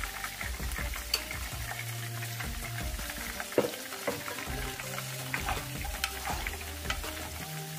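Potato fries sizzling and crackling in hot oil in a wok, with a wire spider skimmer clinking and scraping against the pan as batches are lifted out. A sharp clink stands out about three and a half seconds in.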